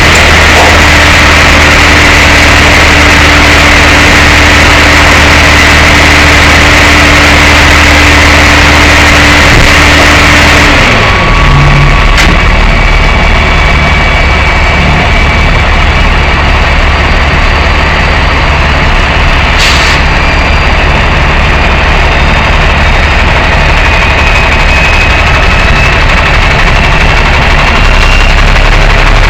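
Tow truck engine running steadily, very loud on the truck's camera. About eleven seconds in the sound changes abruptly: the high hiss drops away and the low hum shifts to a new pitch.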